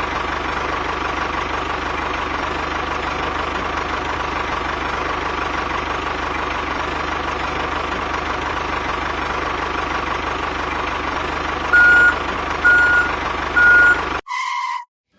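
A vehicle running with a steady noise. Near the end a reversing alarm beeps three times, evenly spaced, followed by a short beep-like tone, and then the sound cuts off suddenly.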